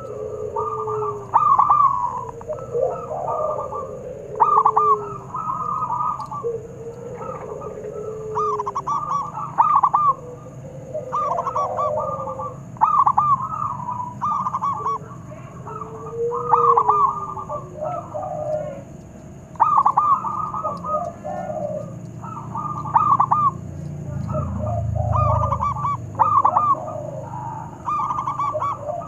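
Zebra doves (perkutut) cooing in overlapping series of short staccato notes, several birds calling back and forth. Clusters of higher notes alternate with lower falling coos every second or two.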